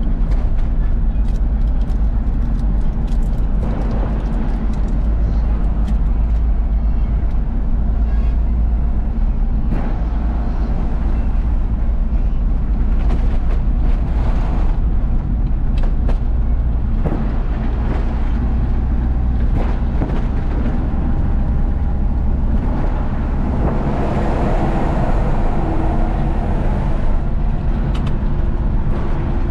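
Isuzu FRR90 truck's diesel engine running steadily at road speed, a heavy low rumble mixed with road noise and scattered clicks and rattles. A faint whine slowly rises in pitch in the second half, and the sound grows somewhat louder around 24 seconds in.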